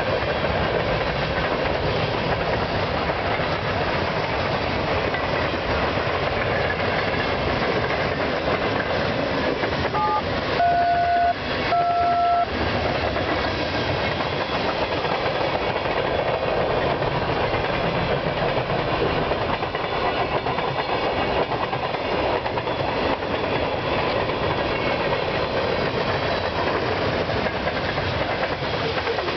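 Freight cars rolling past on the rails, with steady wheel-on-rail noise and clickety-clack. About ten seconds in, a train horn sounds in two short blasts.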